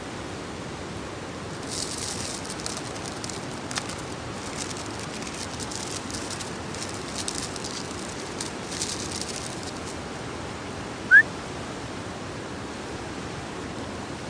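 Wood campfire crackling in irregular fine pops for several seconds over a steady background hiss, then one short rising chirp about eleven seconds in.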